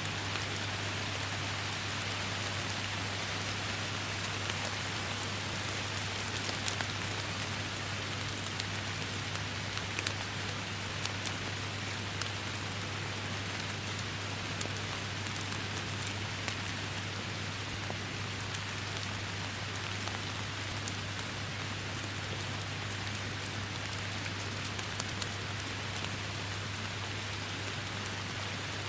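Steady rain falling on forest foliage, a continuous hiss dotted with many sharp drop ticks, over a constant low hum.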